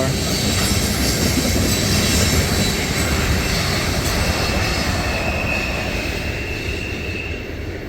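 Rumble and rail noise of a loaded ethanol tank-car freight train's last cars rolling past and away, fading gradually. A thin high squeal holds for a few seconds midway.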